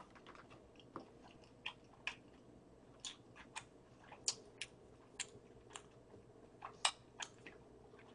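A person chewing food close to the microphone: faint, irregular wet mouth clicks and smacks, a few of them louder.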